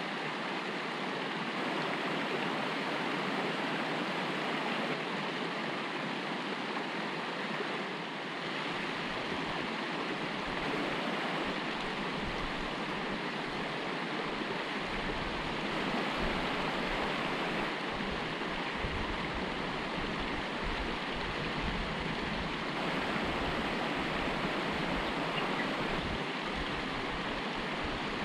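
River cascade rushing steadily. A low uneven rumble comes and goes from about eight seconds in.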